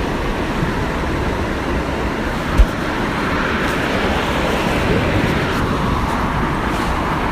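Waterfall rushing steadily, with one brief low thump about two and a half seconds in.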